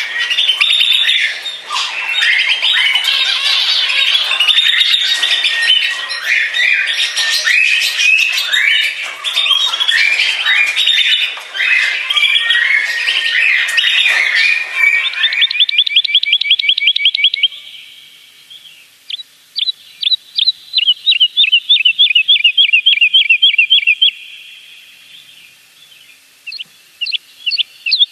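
A songbird singing: for about the first half, a busy, varied warbling song. It then switches to fast runs of rapidly repeated high chirping notes, broken by two short pauses.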